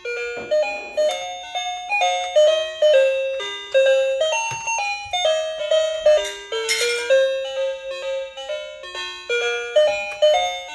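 Simple toy-piano melody in single notes, about two or three notes a second. A brief hissy noise sounds over it about six and a half seconds in.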